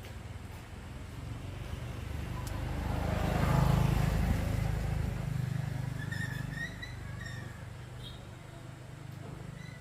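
A motor vehicle's engine passing by, its sound building to a peak about four seconds in and then fading away, over a steady low engine hum.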